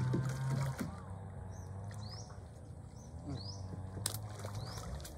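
A bird giving short, high, upward-sweeping chirps, repeated about once a second, over a low steady hum that drops in level under a second in.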